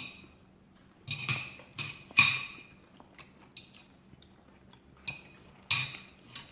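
Cutlery clinking against plates and dishes during a meal: a series of about seven sharp, ringing clinks spread irregularly, the loudest about two seconds in.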